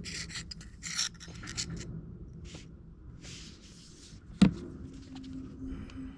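Short rubbing and scraping strokes of hand work on cardboard scenery, with one sharp knock about four and a half seconds in.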